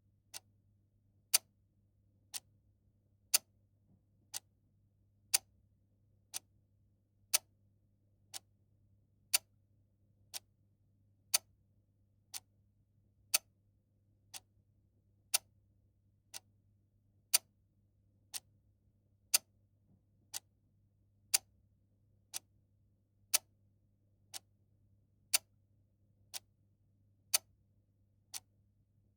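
Clock ticking steadily once a second, the ticks alternating louder and softer in a tick-tock pattern, over a faint steady low hum.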